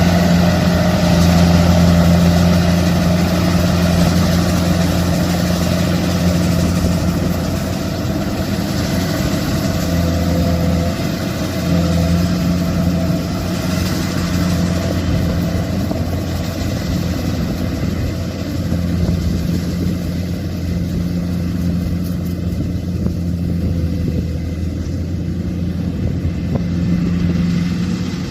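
Kubota combine harvester's diesel engine running steadily with a low hum, easing off briefly a couple of times.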